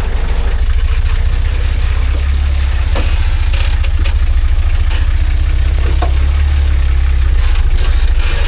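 Engine of a rock-crawling off-road truck running at low revs, a deep steady rumble, with a few scattered clicks and knocks.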